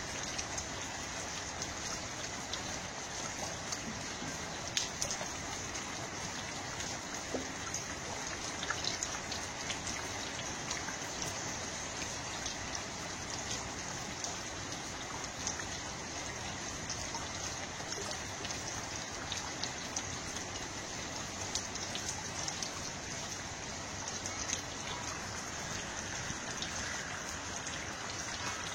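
Steady water noise, like rain or running water: an even hiss with many scattered small drop-like ticks.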